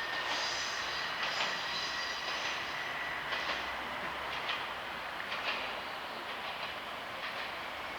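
Tenryu Hamanako Railway TH2100 diesel railcar moving off, its wheels clicking over the rail joints now and then with a thin, high wheel squeal, the sound slowly fading as it draws away.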